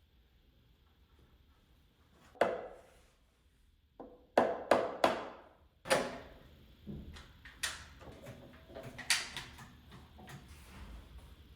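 Pieces of wood knocking and clattering as they are handled and set down: about eight sharp, separate knocks, the loudest a quick run of three around four to five seconds in.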